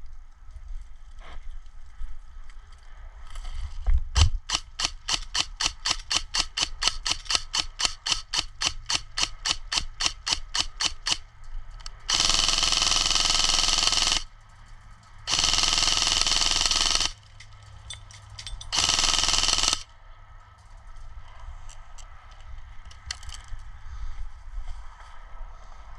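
Airsoft rifle firing close by: a quick run of single shots at about five a second, then three long full-auto bursts of about two, two and one seconds.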